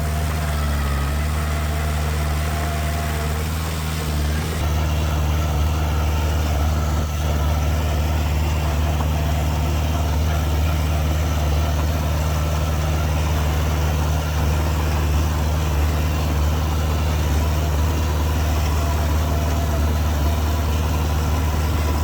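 Heavy diesel engine running steadily, getting slightly louder about four and a half seconds in.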